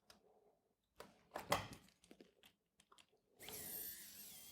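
Hands working wires and a small tool at a terminal: a few light clicks, then about a second of faint scraping near the end.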